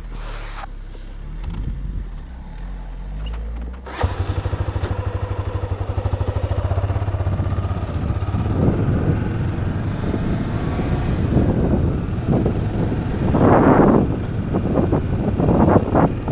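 A vehicle engine starts about four seconds in and keeps running with a steady, rapid low beat. Rough bursts of noise sit over it in the second half.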